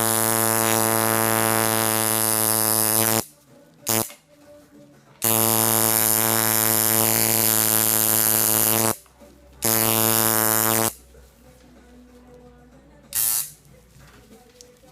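Electric tattoo machine buzzing, switched on and off in runs of a few seconds each, with a faint low hum between runs.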